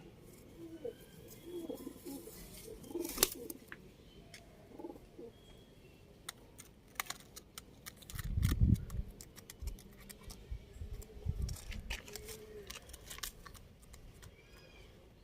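Domestic pigeons cooing in low repeated calls, with scattered sharp clicks. A louder low rumble comes about eight seconds in.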